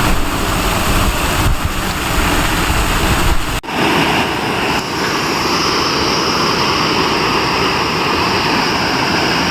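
Steady loud rush of water from a mountain waterfall and stream. A heavy low rumble lies under it for the first few seconds, and the sound dips briefly and sharply about three and a half seconds in.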